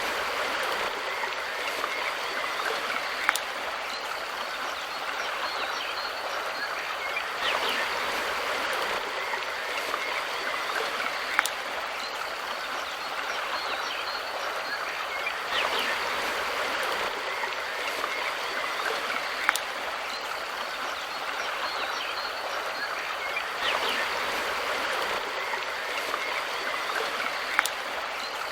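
River water flowing steadily over rocks, with a short sharp tick about every eight seconds.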